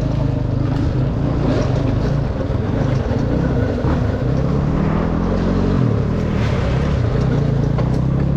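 Dirt bike engine running under way, its pitch climbing about halfway through and dropping back soon after.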